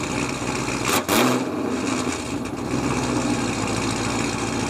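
Pontiac GTO's 6.0-litre V8 running steadily just after starting, with a brief louder blip about a second in.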